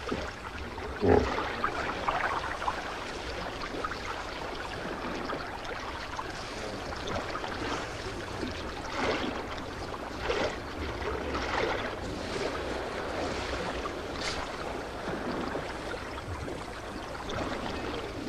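Shallow water and mud sloshing and splashing as a mass of hippos shift about in a drying pool. The sloshing is steady, with a few short louder surges, the first about a second in and others at around nine and ten seconds.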